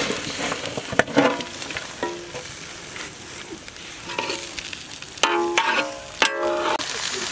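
Chicken pieces sizzling and frying as they drop into a large iron kadai of hot oil and sauce, stirred and scraped with a metal ladle. A sharp knock about a second in, and a few short pitched ringing sounds between about five and seven seconds in.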